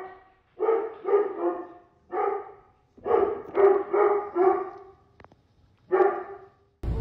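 A dog barking in quick runs of short barks, about nine in all, with brief pauses between the runs.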